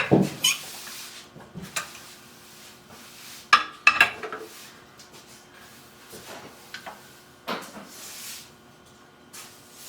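Small metal parts and tools clinking and knocking as they are handled and taken out of a bending setup on the bench: a few sharp clanks, the loudest pair about three and a half to four seconds in, with lighter rattles between.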